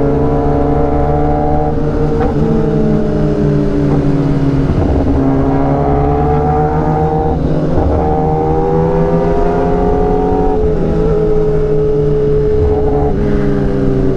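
Inline-four superbike engine running at a steady cruise, its pitch rising and falling slowly, with a few brief dips.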